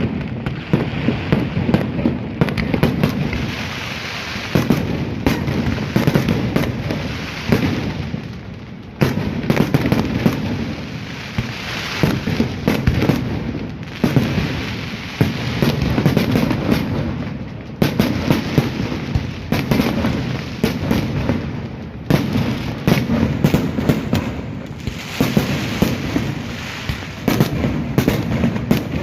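Fireworks display: rapid, irregular bangs and crackling from bursting shells, in dense waves over a low rumble.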